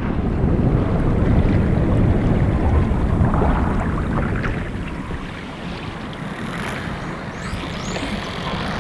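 Open-sea water and wind noise: a steady rushing of waves and churning water with wind on the microphone, louder for the first few seconds and then easing.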